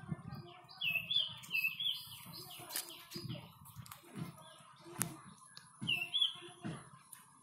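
A bird chirping: a quick run of four short bright notes about a second in and two more near the end, over low irregular thuds and a couple of sharp clicks.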